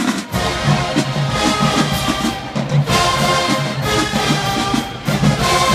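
Marching band playing: brass with a heavy, punchy low end and drums keeping a steady beat. The low brass comes in loudly a moment in.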